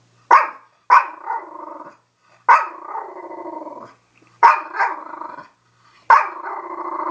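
Dog giving about six short barks, each trailing off into a moaning growl, the last one drawn out.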